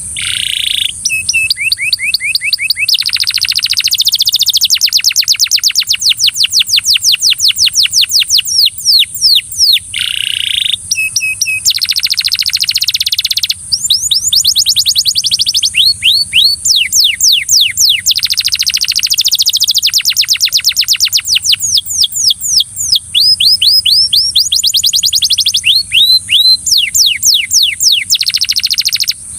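Canary singing loudly in long, fast trills: runs of rapidly repeated sweeping notes, many per second, with a few brief breaks between phrases.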